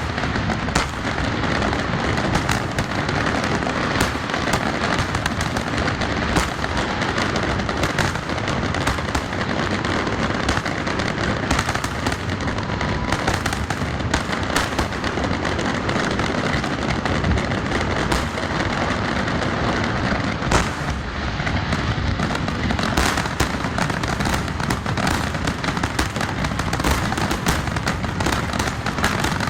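Fireworks finale: a dense, unbroken barrage of bursting shells, many sharp bangs and crackles overlapping with no pause.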